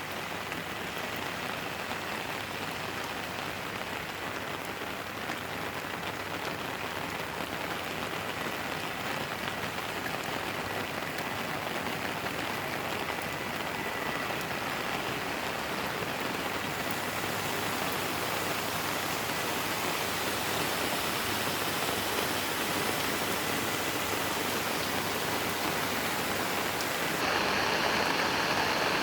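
Steady rain falling, an even hiss that grows slowly louder and steps up again near the end.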